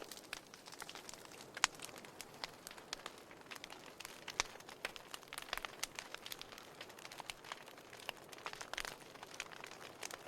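Wood fire in a fireplace crackling, with many irregular sharp pops and snaps over a faint steady hiss.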